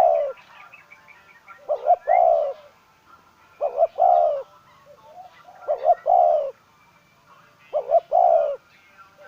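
Spotted dove cooing its repeated phrase about every two seconds, two short notes followed by a longer coo, four times. Faint chirps of small birds behind it.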